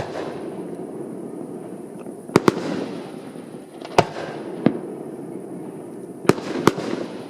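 Fireworks display: aerial shells bursting with sharp bangs, six of them in pairs and singles spread across a few seconds, over a steady background of noise.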